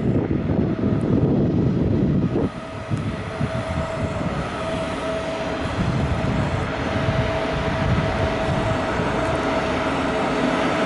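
Newag Griffin EU160 electric locomotive hauling an Intercity passenger train as it runs into the platform, its rolling noise building as it approaches. A steady whine sets in about four seconds in.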